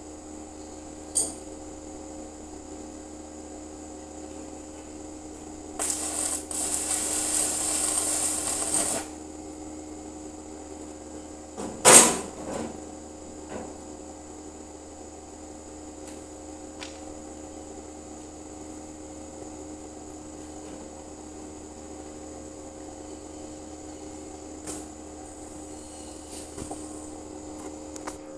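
Steady electrical hum of a welding machine, with a hissing, crackling arc for about three seconds a few seconds in, then a single loud metal clank with a short ring.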